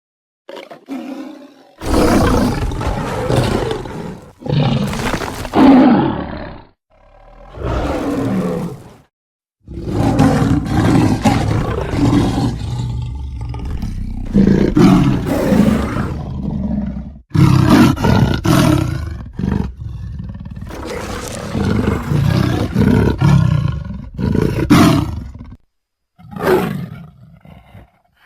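A string of big-cat roars and growls played one after another as sound effects, with short breaks between them and a long unbroken run of roaring through the middle.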